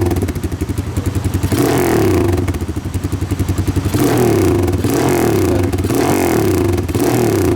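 Motorcycle engine running through a newly made custom exhaust and silencer, idling with a rapid pulse and revved up in short blips about four times. It sounds way better.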